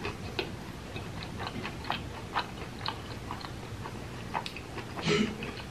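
Close-up chewing of a mouthful of pizza: wet, sticky mouth clicks and smacks at irregular intervals, with one louder, longer mouth sound about five seconds in.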